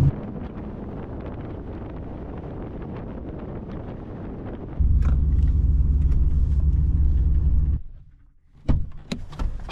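Vehicle noise: a steady rumble, then a louder, lower engine hum that cuts off near eight seconds, followed by a few sharp knocks.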